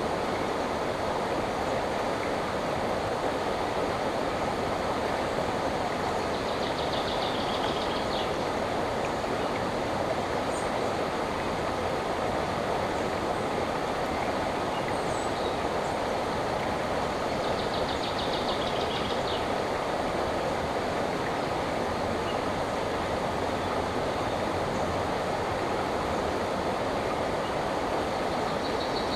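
Andaka river flowing: a steady, even rush of water. A bird gives a short high trill three times, about every eleven seconds.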